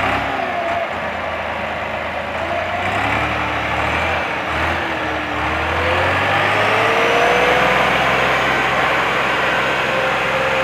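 Tractor engine running hard, its pitch slowly rising and falling as the revs change, with a dense mechanical din over a steady low drone; it grows louder about two-thirds of the way through.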